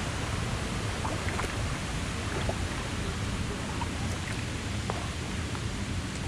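Kayak on a river: a steady rush of water and wind noise, with a few faint ticks scattered through.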